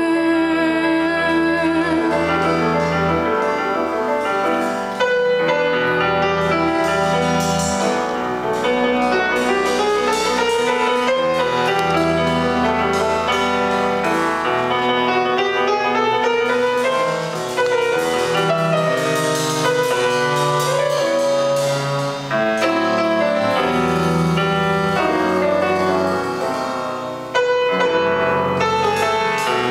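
Instrumental break in a slow jazz ballad played by a small live band: piano carrying the melody, with low bass notes moving underneath.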